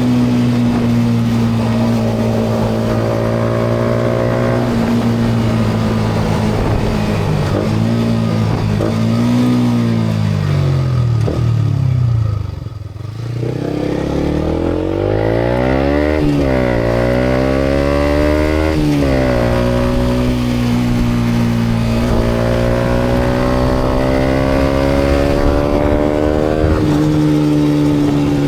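Yamaha MT-125's single-cylinder four-stroke engine through a GPR aftermarket exhaust while riding. It holds a steady cruise, then the revs rise and fall through several gear changes. The sound drops away briefly as the throttle closes about halfway through, then pulls up again and settles back to a steady cruise.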